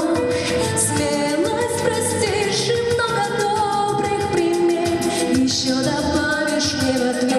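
Live pop band playing a song, with singing over a steady drum beat.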